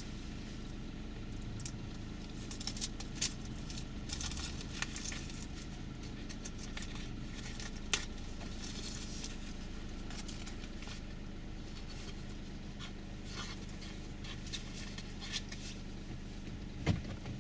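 Car engine idling, heard from inside the cabin while the car stands still: a steady low hum, with scattered light clicks and ticks over it, the sharpest about eight seconds in.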